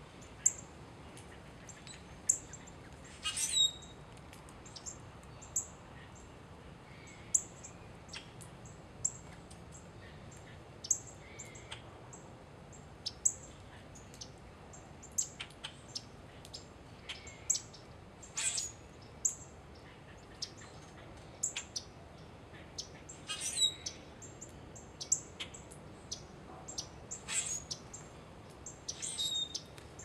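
Bird chirps: many short, sharp, high chirps at irregular intervals, with a few longer calls that drop in pitch, about 3.5 s in, near 23 s and near the end.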